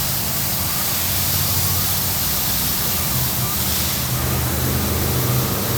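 Sonny's/PECO car wash tunnel running its pre-soak stage: a steady rush of water spray over a low machinery hum.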